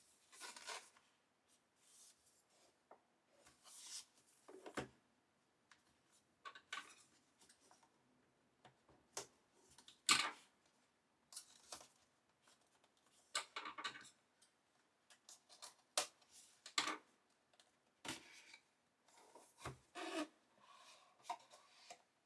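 Packaging being handled and opened: irregular faint rubbing, scraping and rustling with occasional sharp clicks and taps.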